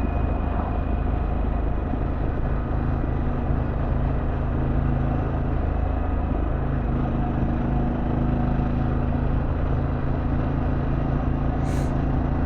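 Harley-Davidson Pan America Special's 1250 cc Revolution Max V-twin running steadily at cruising speed under way, with a dense rush of wind and road noise underneath.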